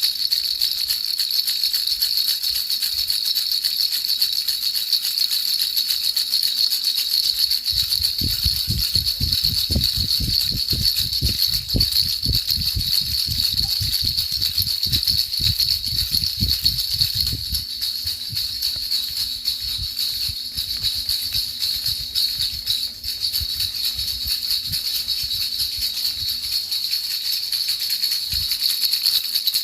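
Baby rattle shaken continuously, a steady high jingling rattle used as sleep noise. From about 8 to 17 seconds a rapid run of low thumps sounds underneath.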